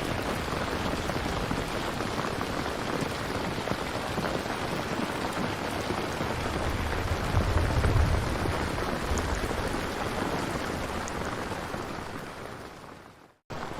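Steady rain ambience, with a low rumble swelling about eight seconds in. Near the end the rain fades quickly to silence, then cuts back in abruptly, as at the seam of a looped track.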